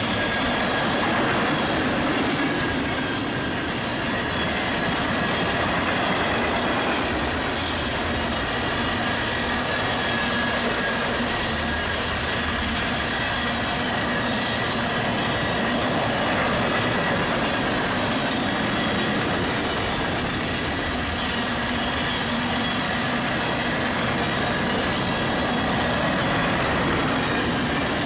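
Freight train of tank cars rolling steadily past on the rails, a continuous rumble with a faint, thin high squeal from the wheels.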